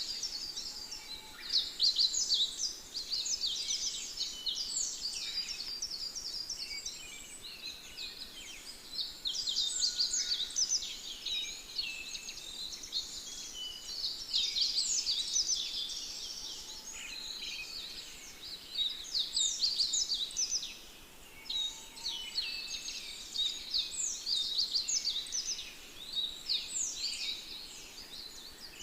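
Many small birds chirping and singing at once: a dense, continuous chorus of quick, high notes that swells and eases every few seconds.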